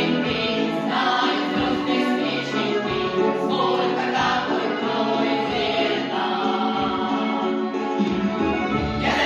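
Choir singing a song in long, held notes.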